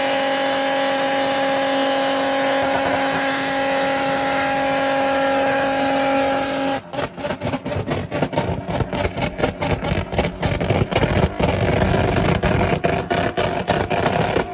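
Car engine held at steady high revs, then about seven seconds in it breaks into a rapid, irregular crackle of pops and bangs from the exhaust, the sound of a two-step launch limiter.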